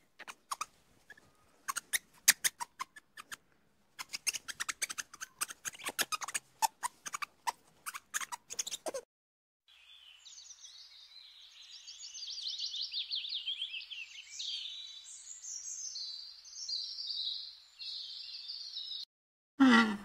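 A run of short, sharp clicks and ticks for about the first nine seconds, then birds chirping and twittering in quick high trills for most of the rest.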